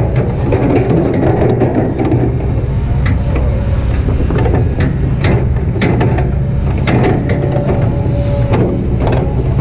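Kobelco SK200-8 hydraulic excavator's diesel engine running steadily under working load, with irregular sharp knocks and clanks from the machine at work and a faint held whine.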